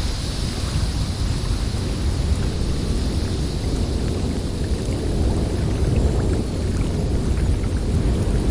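Snowstorm wind blowing steadily: a deep rumble under a high hiss, the hiss strongest at the start and easing after a few seconds.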